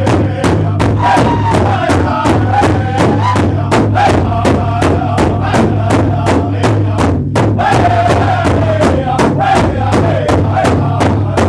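A band jamming: a steady beat of sharp percussion strikes about four a second over a held low note, with a wavering melody line sung or played above.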